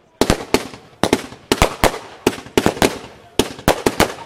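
Multi-shot fireworks cake firing in rapid succession: a fast, irregular string of sharp bangs, about three or four a second, each fading quickly.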